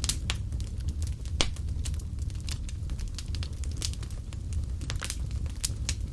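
Wood fire burning in a fireplace: a steady low rumble of the flames with frequent sharp, irregular crackles and pops, one louder pop about a second and a half in.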